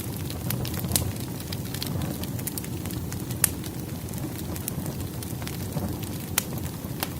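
Firewood burning in a fireplace: a steady low rush of flames with scattered sharp crackles and pops, the loudest pop about three and a half seconds in.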